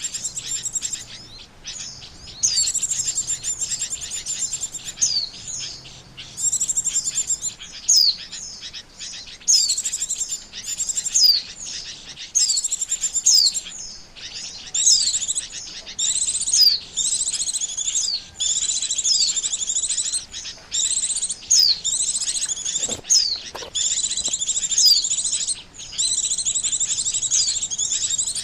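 White-eye (pleci) song used as a lure call: rapid, high chattering trills with swooping whistled notes, in phrases of a second or two separated by short breaks.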